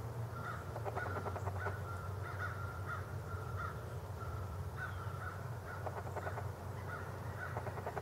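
Faint bird calls: a string of short, harsh notes repeated every half second or so, over a low steady hum.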